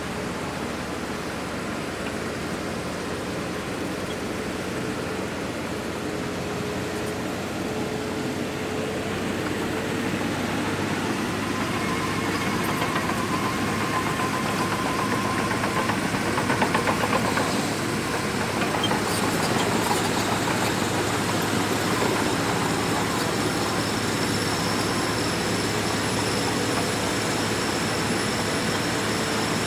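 Shantui DH17C2 bulldozer at work, its diesel engine running steadily. The engine grows louder about ten seconds in, and there is a short spell of clanking around halfway through.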